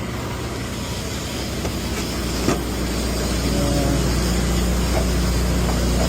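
A cryogenic tanker truck running its transfer pump during unloading: a steady low mechanical hum that grows a little louder about two seconds in, with one sharp click shortly after.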